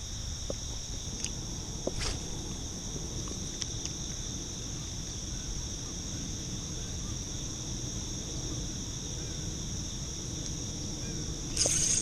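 Steady outdoor insect chorus, a continuous high-pitched trilling in two pitches, over a low background rumble. A louder noise comes in near the end.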